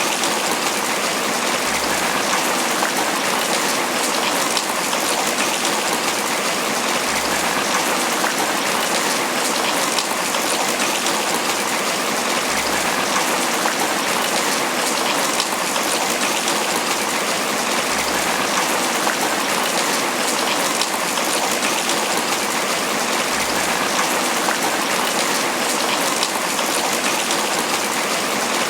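Steady tropical rain falling on banana leaves, a dense, unbroken patter of drops.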